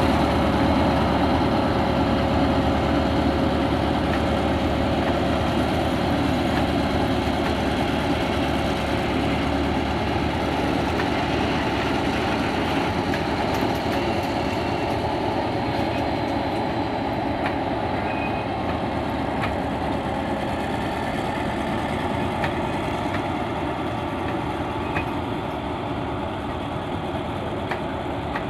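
Freight train of tank wagons hauled by an Alsthom diesel-electric locomotive, its engine running with a steady hum and the wagons rolling along the rails, slowly fading as the train draws away, with a few faint wheel clicks in the second half.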